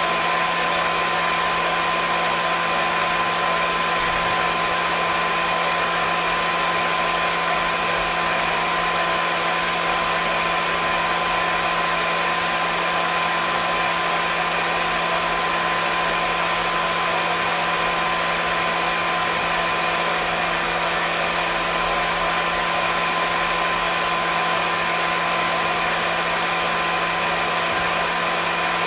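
Hair dryer running steadily: an even rushing air noise with a constant motor whine, no change in speed.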